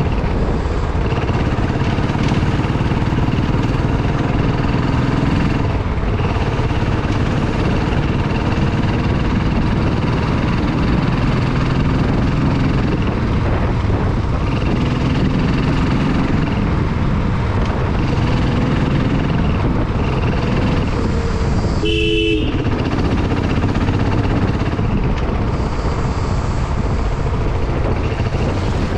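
Motorcycle engine running under way, its note rising and falling with the throttle over a steady rush of wind noise. A vehicle horn honks once, briefly, late on.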